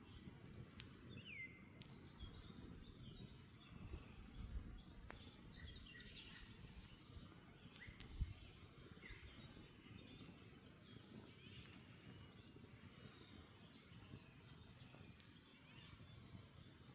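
Wood campfire crackling quietly, with sharper pops about five and eight seconds in. Birds chirp in short, high, gliding calls throughout.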